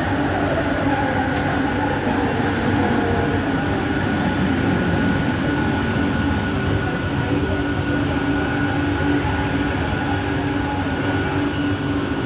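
Cabin running noise of a Bombardier Innovia ART 200 train in motion: a steady rumble from the wheels and running gear, with constant hums and a higher whine from its linear induction motors.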